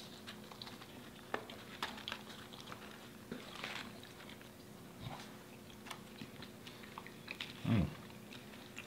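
Quiet chewing of french fries, with scattered soft mouth clicks and a short low sound about three-quarters of the way in.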